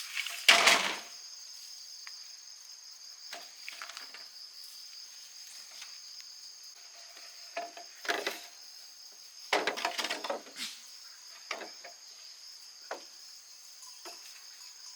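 A steady, high-pitched insect chorus, with scattered knocks and rustles from handling work over it. The loudest knock comes about half a second in, with another cluster of knocks around eight to ten seconds.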